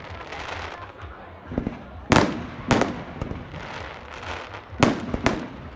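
Fireworks going off: four sharp, loud bangs in two pairs about half a second apart, the first the loudest, with a fainter bang before them and crackling and echo in between.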